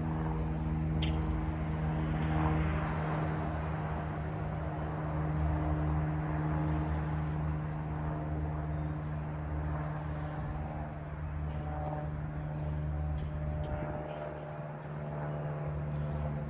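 A steady engine hum holding one constant pitch over a background rush, swelling slightly a few seconds in, with a few faint ticks near the end.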